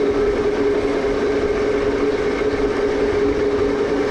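Metal lathe running steadily under power feed while taking a cut, a steady machine hum with a held tone, and no chatter from the cutter.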